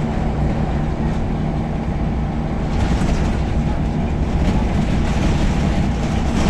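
Scania L94UB bus's nine-litre five-cylinder diesel engine running steadily as the bus drives, with road noise that grows louder about three seconds in.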